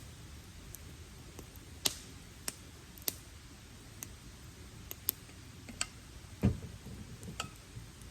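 Wood campfire crackling: sharp, irregular pops from burning wood, about eight in all, over a steady background hiss. A louder, duller thump comes about six and a half seconds in.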